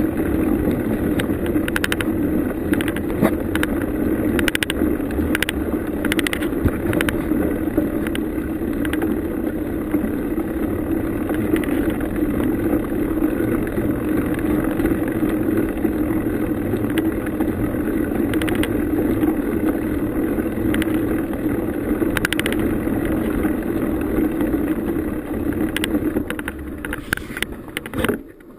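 Bicycle being ridden: a steady tyre rumble with frequent rattling clicks, dropping off sharply near the end as the ride slows or stops.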